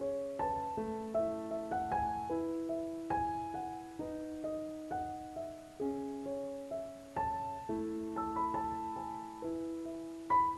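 Background music: a gentle piano melody of single notes and overlapping held tones, each struck and slowly fading, with a louder note near the end.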